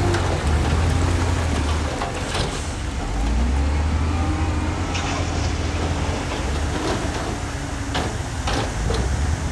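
Heavy diesel earthmoving machinery running, with a steady low engine drone and scattered clanks and knocks.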